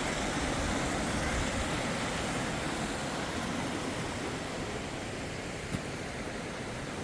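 Steady rushing noise that eases slightly partway through, with one sharp click about six seconds in.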